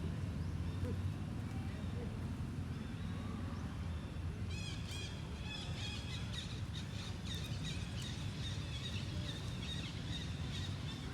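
High-pitched animal chirps, short and repeated, begin about halfway through over a steady low background rumble.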